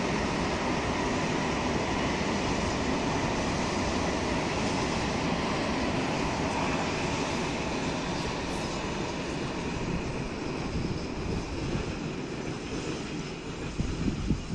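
Freight train of tank wagons rolling past, a steady rumble and rattle of wheels on rail that grows fainter over the last few seconds as the train moves away. Two short bumps near the end.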